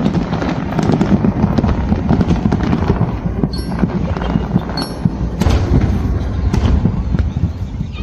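Fireworks going off: a dense run of bangs and crackles over a steady low rumble, with louder single bangs about five and a half and six and a half seconds in.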